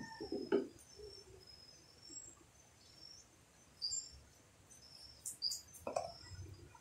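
Small birds chirping repeatedly in the background. A few light knocks come in between, near the start and again about six seconds in, as plastic oil and fuel containers are handled.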